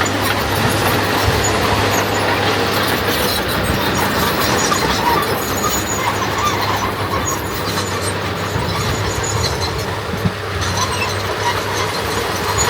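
Diesel earthmoving machinery running steadily at work, with a low engine hum under continuous mechanical noise.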